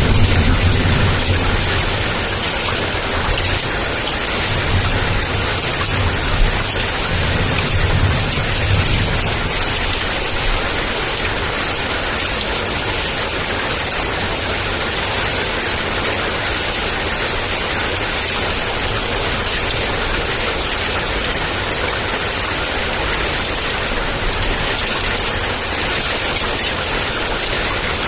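Heavy, steady downpour of rain. A low thunder rumble runs through roughly the first third and then fades out.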